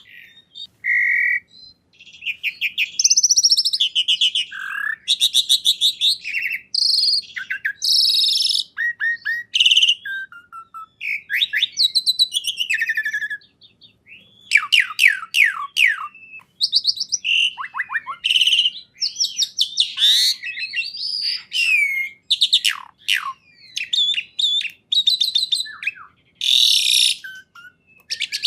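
A songbird singing a long, varied song of rapid trills, clear whistles and sweeping notes, phrase after phrase with only brief pauses.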